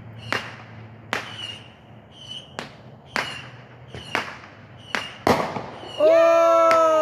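Fireworks and firecrackers going off, sharp separate bangs about every half second to a second. Near the end a person lets out a long, loud, falling "ohhh".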